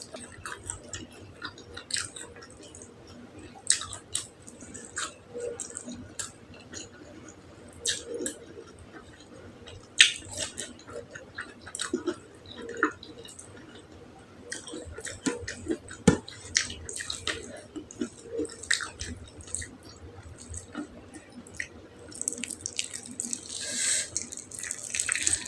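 Close-miked eating: a person chewing and smacking on soft, wet beef tongue, with irregular wet clicks and squelches. A longer, hissier stretch comes near the end.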